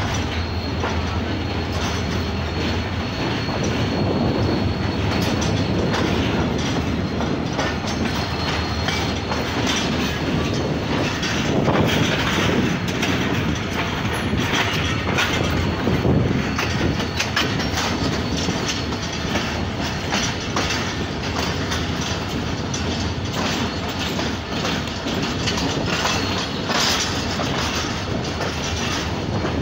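Passenger train running along the track, its wheels clattering steadily over the rail joints.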